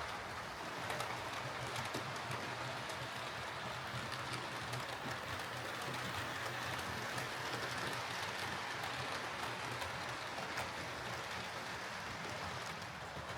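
Hornby OO gauge Class A4 model locomotive running on track after its pickup repair: a steady motor and gear hum with a rushing wheel-on-rail noise and occasional light clicks.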